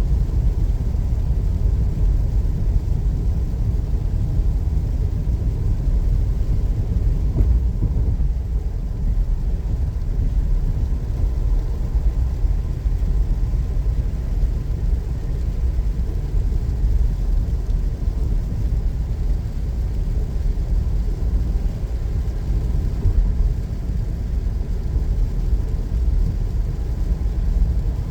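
A car driving along a highway, with steady low road and engine rumble throughout.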